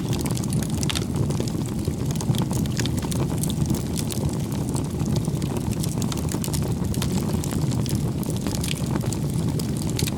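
A bonfire burning: a steady low rush of flames with frequent sharp crackles and pops from the burning wood.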